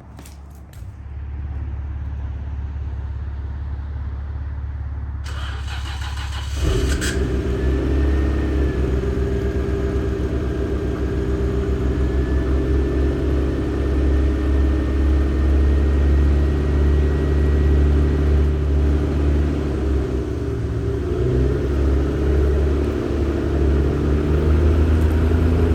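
Nissan RB-series straight-six engine started from cold: about six and a half seconds in it cranks briefly and catches, then settles into a steady warm-up idle with a faint high whine, the idle wavering slightly near the end.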